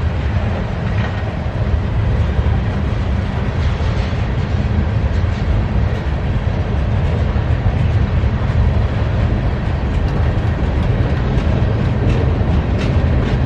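Freight train cars rolling past on the rails: a steady, loud low rumble of wheels and trucks, with a few faint clicks.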